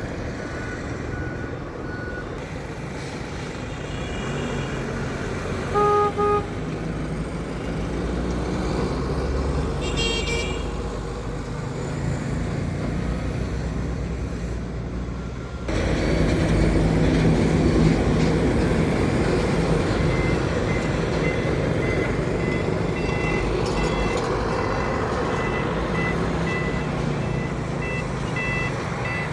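Truck engines and road traffic running, with a vehicle horn tooting twice in quick succession about six seconds in. About halfway through, a truck engine comes in sharply louder. In the last third, a short electronic beep repeats at an even pace over it.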